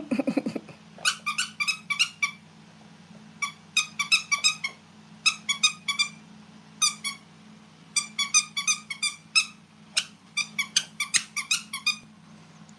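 A squeaky dog toy squeaking over and over as a puppy chews it, in quick runs of short high squeaks separated by brief pauses.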